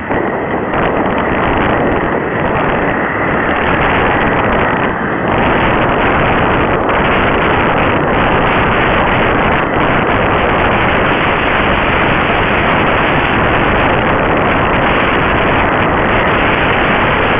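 Loud, steady wind rush over the microphone of a moving motorcycle, mixed with road and engine noise, getting a little louder about five seconds in.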